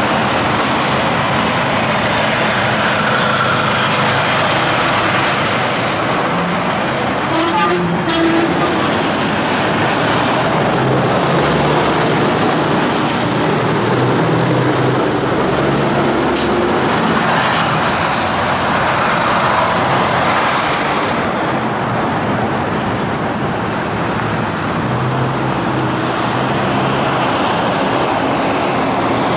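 Highway traffic with semi trucks passing: steady diesel engine drone and tyre roar, with a brief sharper, higher sound about eight seconds in.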